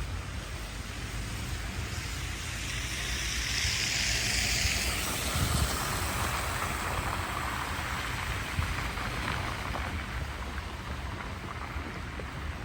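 A vehicle passing on a wet, slushy street: tyre hiss swells over a few seconds, then fades and drops in pitch, over a low steady rumble of wind on the microphone.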